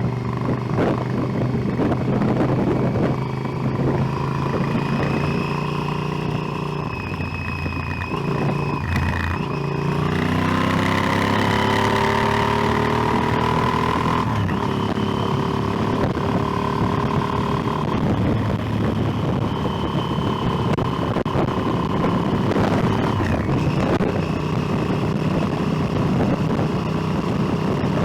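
Motorcycle engine running while riding; it eases off briefly around eight seconds in, then accelerates with a rising pitch about ten seconds in and settles into a steady cruise.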